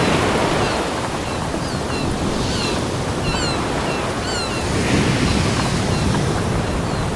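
Ocean surf washing onto a beach, a steady dense rush that swells and eases gently. Faint short high chirps are scattered through it.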